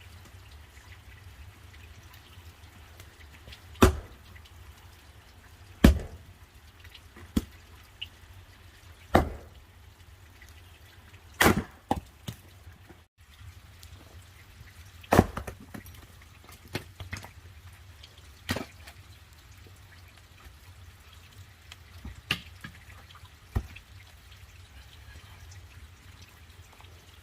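Axe blows splitting firewood: a dozen or so sharp, separate cracks, irregularly spaced a couple of seconds apart, some followed quickly by a second, smaller knock.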